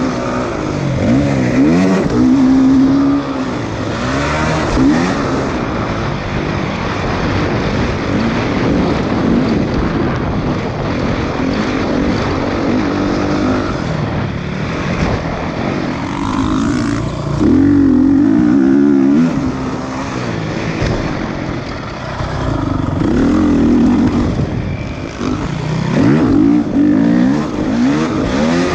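Motocross bikes racing, their engines revving up and falling away again and again as they pass, over a steady din of more engines.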